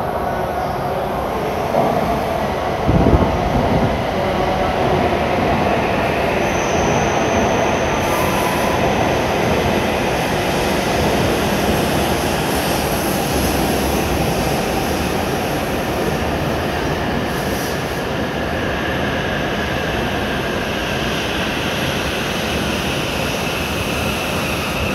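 W7 series Shinkansen train pulling slowly into the platform on arrival: a steady rush of the cars running past, with faint high whines. There is a sharp thump about three seconds in.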